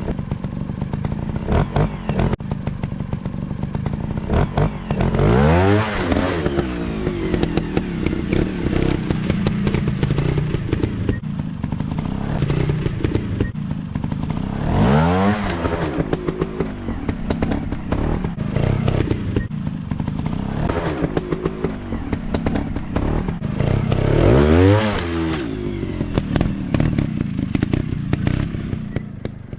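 Dirt-bike engines running on a trail, revving up and dropping back about every ten seconds, with scattered clattering knocks.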